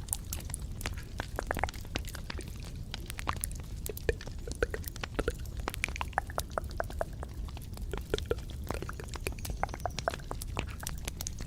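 Close-miked ASMR trigger sounds: a steady stream of small clicks and wet crackles, with a low steady rumble underneath.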